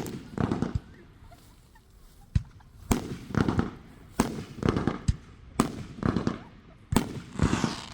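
Aerial fireworks bursting overhead: about seven sharp bangs, one every second or so, each followed by a short echoing tail.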